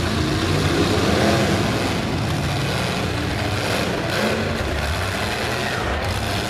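Several demolition derby cars' engines running and revving together in the arena, a loud continuous din with engine pitch rising and falling around a second in.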